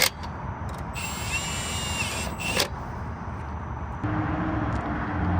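A car engine running at a steady low idle, its note stepping up louder and steadier about four seconds in. A high-pitched whine sounds over it for about a second and a half near the start.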